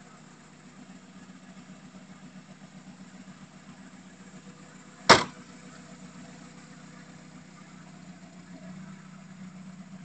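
1989 VW Fox's four-cylinder engine idling steadily, with its boot lid slammed shut once, about five seconds in.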